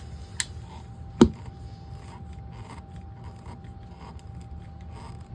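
A plumbing pipe fitting being handled and screwed in by hand: a sharp knock about a second in, then light scraping and rubbing of the threads. A faint steady whine sounds under it throughout.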